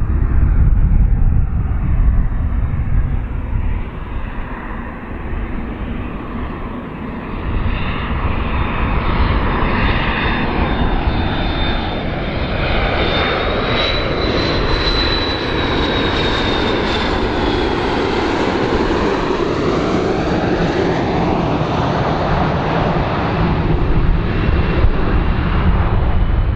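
Aircraft engines roaring in a close flyover, with a high whine that rises and then falls as the airplane passes.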